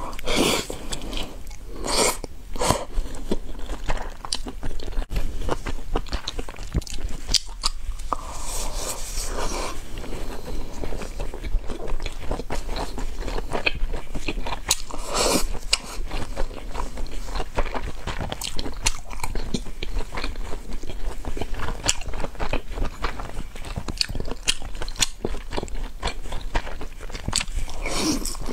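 Close-miked biting and chewing of large steamed shaomai dumplings with a pork filling: a dense, continuous run of small mouth clicks and smacks.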